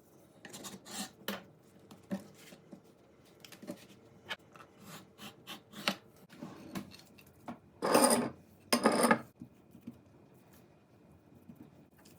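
Kitchen handling sounds: light knocks and rubbing throughout, then two loud scraping strokes, each about half a second long, about eight and nine seconds in.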